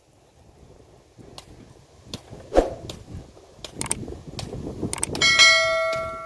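Scattered knocks and clatter with one sharp knock, then a metal object is struck and rings out with several clear tones, fading away over about a second and a half.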